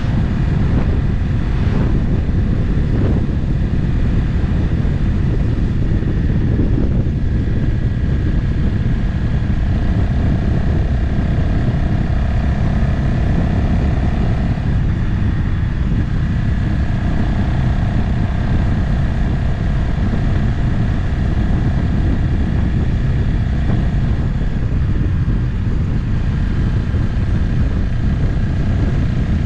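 Motorcycle cruising at a steady speed on the open road, its engine running under a heavy rush of wind on the microphone. A faint steady tone comes in about ten seconds in and again from about sixteen seconds in.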